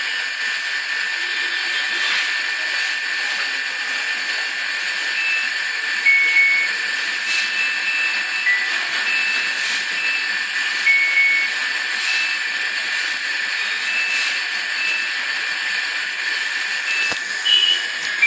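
Steady hiss with a thin constant whine, and short electronic beeps at a few different pitches every second or so, from the control panel of a Samsung WF2652WQS/XTL front-load washing machine.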